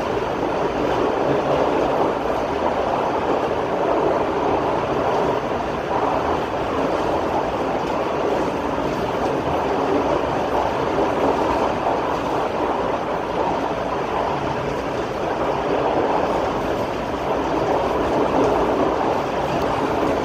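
Express passenger train running at speed, heard from on board: a steady rumble and rush of wheels on rail and the moving coach, even throughout.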